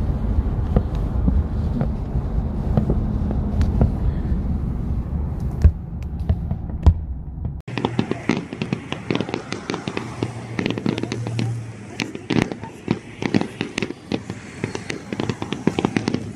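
Aerial fireworks popping and crackling in the distance, first heard over a strong low rumble with only scattered pops, as from inside a car. A little before halfway the sound changes suddenly to the open air: the rumble drops away and dense crackling bursts come several a second.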